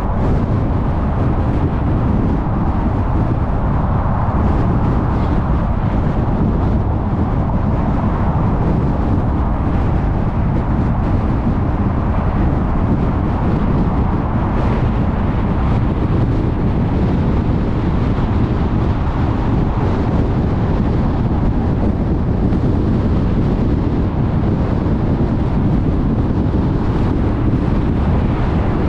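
Car travelling at freeway speed: steady tyre and road noise with wind, a constant low rumble, swelling briefly about halfway through.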